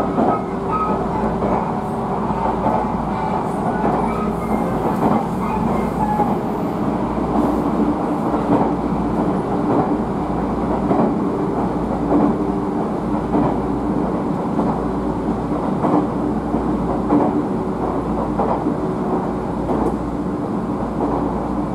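Electric train running on the JR Minobu Line, heard from inside the car: steady running noise with a low hum, and wheels clicking irregularly over rail joints throughout.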